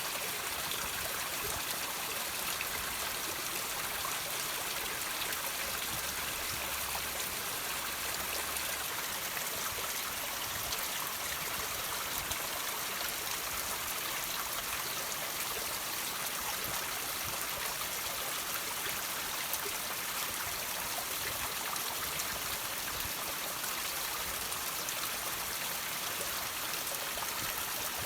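Water trickling and dripping over rocks: a steady, even hiss of running water with small drips scattered through it.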